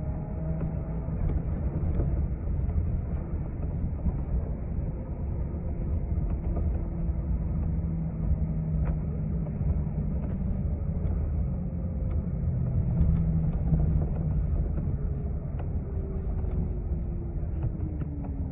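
City bus heard from inside the cabin while driving: a steady engine and road rumble with a faint whine. Near the end the whine falls steadily in pitch.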